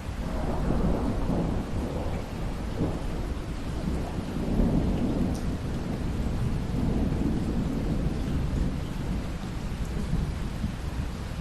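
Rolling thunder over steady rain: a low rumble swells at the start and keeps surging in waves for the whole stretch.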